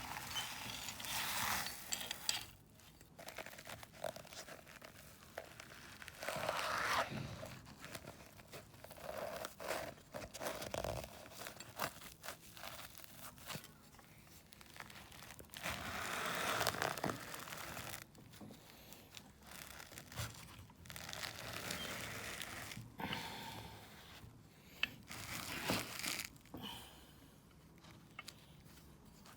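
Meat grinder crushing material fed into it: irregular bursts of crunching and crinkling, each lasting a second or two, with quieter gaps between them.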